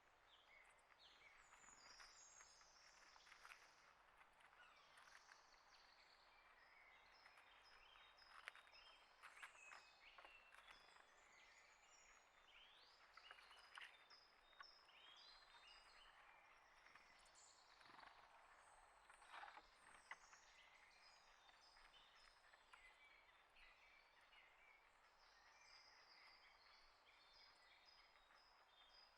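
Faint, scattered chirps and tweets of small birds, with occasional light clicks mixed in.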